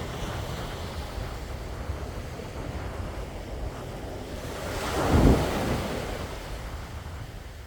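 Sea waves washing in, with one wave swelling and breaking loudest about five seconds in. Wind buffets the microphone.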